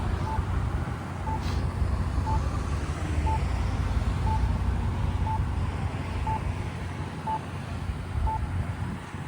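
A short electronic beep repeating once a second, steady in pitch and level, over a low rumble of wind and road traffic.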